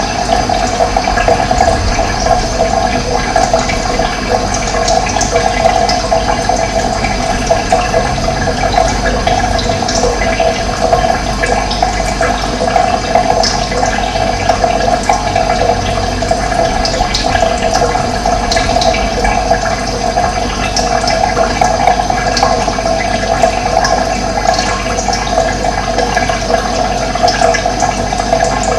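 Running water, a steady, unbroken flow, with a few faint, short bird chirps high above it.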